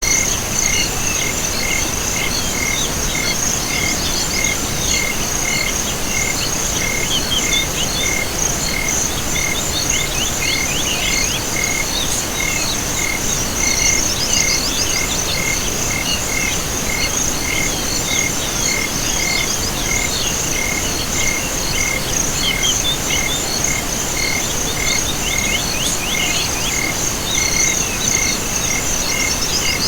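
Chorus of crickets and other insects: a continuous high trill, a steady chirp repeating about one and a half times a second, and scattered rasping calls, over a steady hiss.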